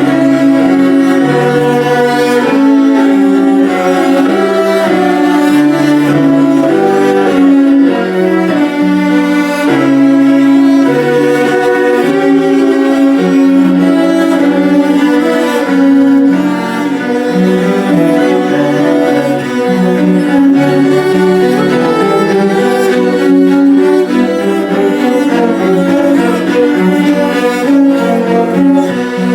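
A cello ensemble playing together, with sustained bowed notes and a melody moving over lower held notes.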